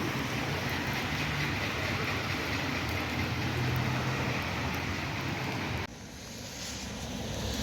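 Steady rain with a low rumble under it; the sound drops sharply about six seconds in, then builds back up.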